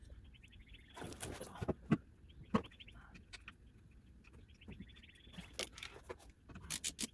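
Scattered metallic clicks and knocks of bolts, washers and tools being handled while mounting bolts are fitted by hand, with a quick run of clicks near the end. A bird trills faintly in the background.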